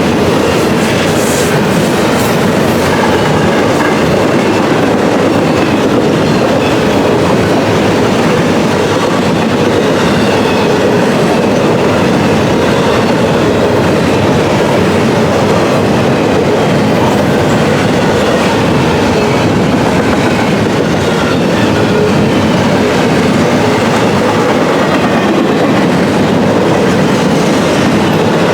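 Cars of a CSX intermodal freight train rolling past at speed, with a steady loud rumble of wheels on rail and clickety-clack over the rail joints.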